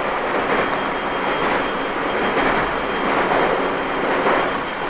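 Tobu 30000 series electric train heard from inside a motor car while running: steady wheel-on-rail and running noise that swells and eases every second or so.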